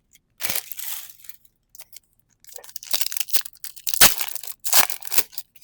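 Foil Pokémon booster pack wrappers crinkling and tearing as the packs are handled and opened, in short crackly bursts with a sharp snap about four seconds in.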